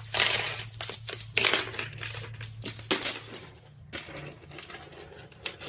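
Rapid clinking and rattling of small hard objects, like coins or small metal or glass pieces being tumbled or knocked together, densest in the first three seconds and thinning out after, over a low steady hum.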